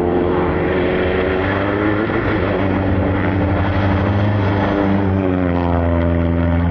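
Rally car engine running hard under load, a steady droning note whose pitch dips slightly a couple of times.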